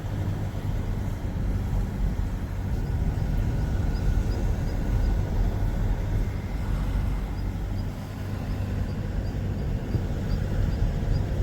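A car driving along a road: a steady low rumble of engine and tyre noise that keeps up without a break.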